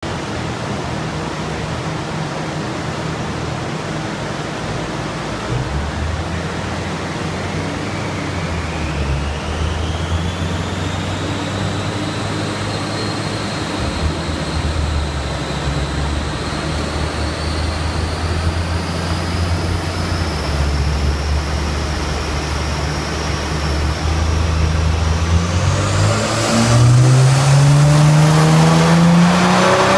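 Nissan GT-R's twin-turbo V6 running on a chassis dynamometer: a thin whine climbs slowly in pitch over a steady rush of noise. About 26 seconds in, the engine note rises sharply and grows louder as it revs up under load in a dyno pull.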